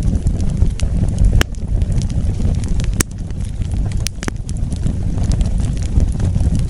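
Wood fire burning: a steady low rumble of flame with scattered sharp crackles and pops, the loudest about a second and a half in and at three seconds.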